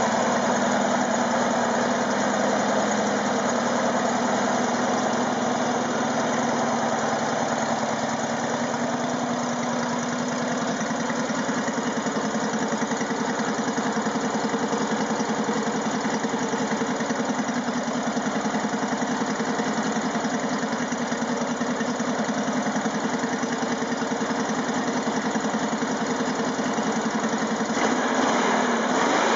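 1961 Porsche 1600 air-cooled flat-four engine running steadily on a test stand near idle. Its speed shifts briefly near the end.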